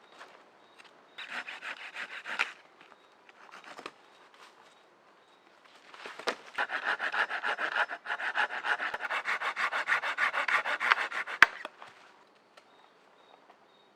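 Hand saw cutting wood in quick, even strokes: a short burst of sawing, a pause, then a longer steady run of several strokes a second. A single sharp knock comes near the end.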